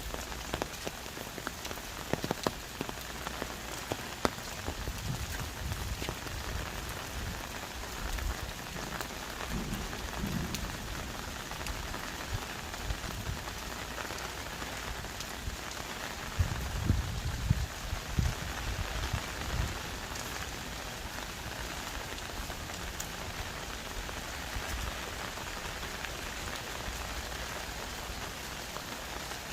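Heavy tropical rain falling on forest trees and leaves, a steady hiss dotted with sharp drop hits close by. A few low thumps come and go in the middle.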